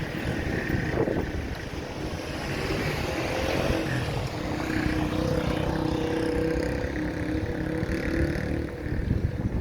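Street traffic: a motor vehicle passes with a steady engine hum that swells through the middle and eases near the end, over low wind buffeting on the microphone.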